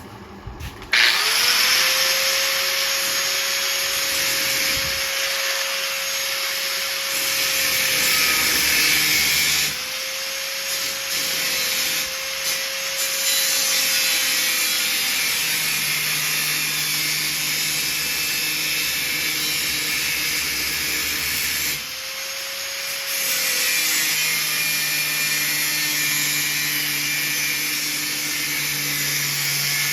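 Handheld electric grinder working on steel. It spins up about a second in and runs with a steady whine over a loud hiss, easing off briefly twice, near ten seconds and again past twenty.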